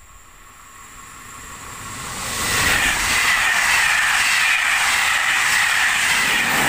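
Passenger train of Corail coaches with an SNCF electric locomotive at the rear passing at speed close by: the rush and rumble of the coaches swells over the first two seconds, then stays loud. A high ringing tone runs through it, slowly dropping in pitch.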